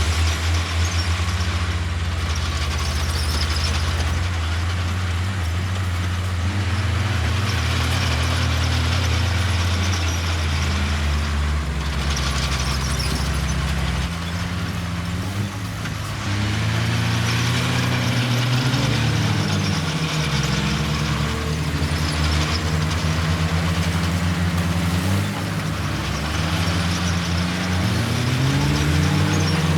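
Heavy diesel engines of a crawler bulldozer and dump truck working under load: a steady low rumble whose pitch rises and falls again and again as the engines rev, with a broad hissing noise above it. The sound dips briefly about halfway through.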